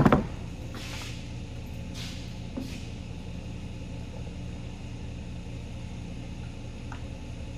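Shop exhaust fan running with a steady low hum, clearing primer vapours from the paint area, with a few faint handling scuffs over it.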